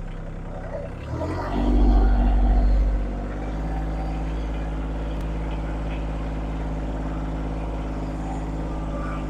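Engine of a land-clearing machine running steadily, revving up about a second and a half in and settling back to a steady run after about three seconds.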